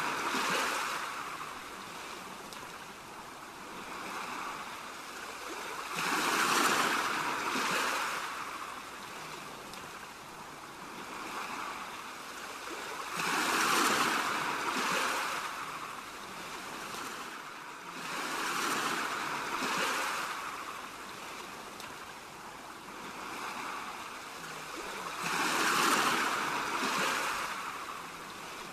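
Ocean waves washing onto a shore, the surf swelling and ebbing in slow surges about every six to seven seconds.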